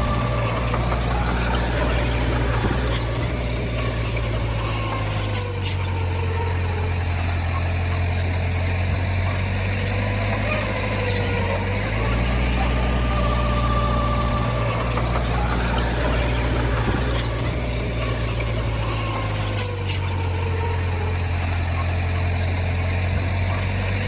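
Heavy diesel engine of earthmoving machinery running steadily, its pitch dropping and coming back up about every seven to eight seconds, with a few scattered clicks.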